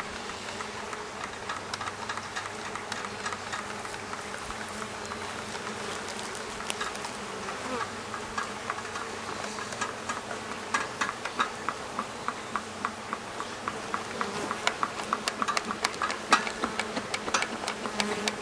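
Swarm of agitated honeybees buzzing in a steady drone around an open top-bar hive, the colony turned defensive. Sharp clicks and taps come more and more often in the second half.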